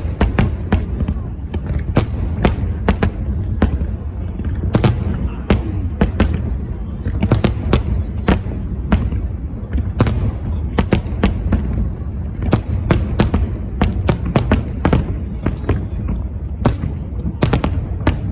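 Fireworks display going off in quick, irregular succession: many sharp cracks over a continuous low rumble of booms.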